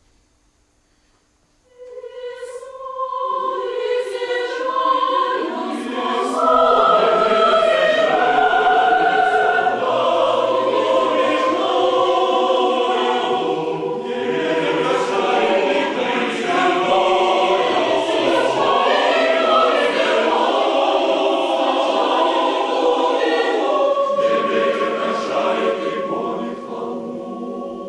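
Choir singing in full chords, coming in about two seconds in after a short silence, swelling to full voice and easing off near the end.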